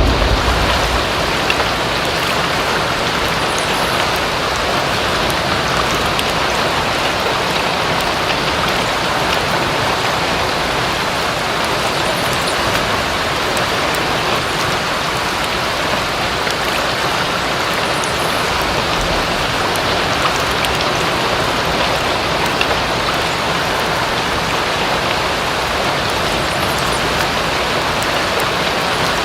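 Steady rain falling: an even hiss with a fine patter of drops. A low rumble dies away in the first second.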